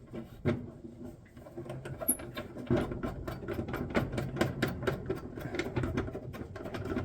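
Rapid mechanical clicking over a low steady hum, starting about three seconds in, as the screws holding the old humidifier solenoid valve are being loosened.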